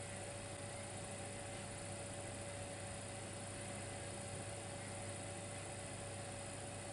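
Dimplex electric fireplace heater running: a steady electrical hum with a constant thin whine over an even hiss, unchanging throughout.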